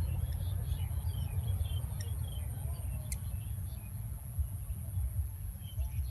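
Outdoor ambience: a low, uneven rumble with scattered bird chirps and a steady high-pitched whine.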